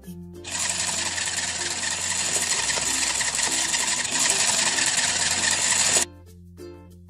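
Battery-powered toy kitchen appliance whirring steadily for about five and a half seconds, starting and stopping abruptly, with soft children's music underneath.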